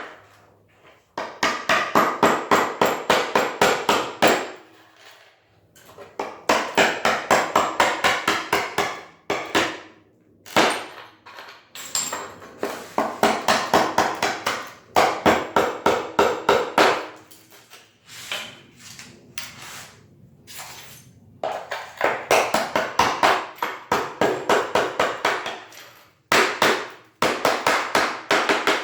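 Hammer striking a chisel in quick strokes, about five a second, in runs of several seconds with short pauses, chipping out a cracked ceramic floor tile that is firmly stuck to its adhesive bed.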